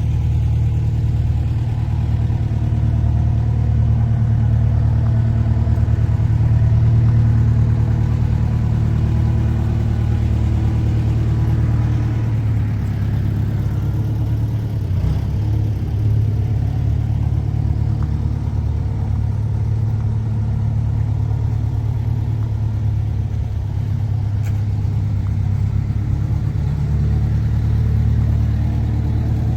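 Rice combine harvester's engine running steadily at a constant speed.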